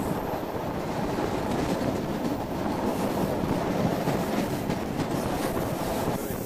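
Passenger train running on the rails, heard from an open carriage window: a steady rumble of the wheels on the track.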